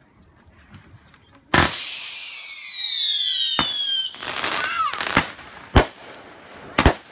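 Aerial fireworks: a sudden loud shriek of several whistles at once, falling in pitch for about two and a half seconds, then sharp bangs about a second apart as the shells burst.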